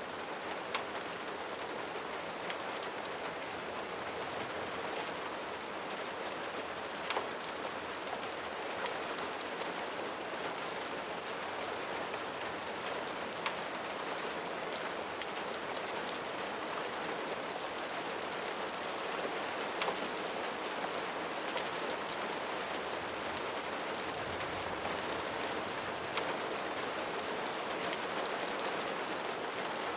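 Steady rain falling, an even hiss without pauses, with a few sharp pops or clicks scattered through it every several seconds.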